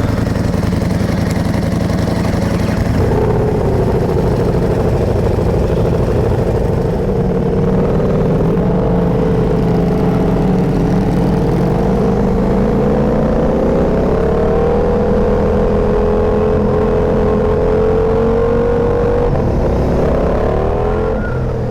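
Ducati motorcycle engines running and revving under way. The engine pitch drifts up and down and rises near the end.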